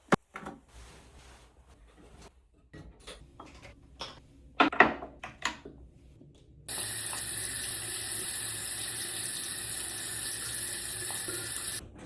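Several light clicks and knocks of things being handled, then a tap turned on and water running steadily into a sink for about five seconds, shut off just before the end.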